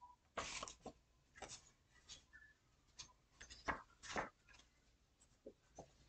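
Faint, scattered soft rustles and light taps, from tarot cards and other small things being handled on a table.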